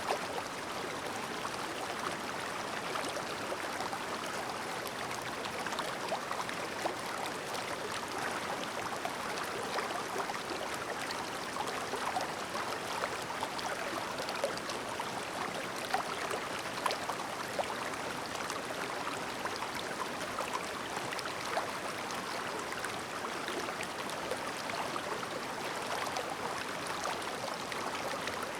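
Clear mountain stream babbling: a steady rush of flowing water with fine bubbling and small splashes scattered through it.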